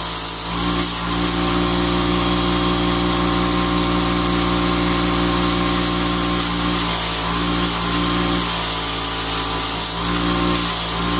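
Electric arc welder running steadily: a mains-frequency hum with a crackling, hissing arc that swells and fades over the seconds.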